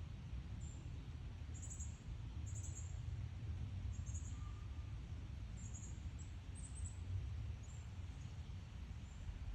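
Northern cardinal fledglings calling: short, very high chip notes, about ten of them at uneven intervals, over a steady low background rumble.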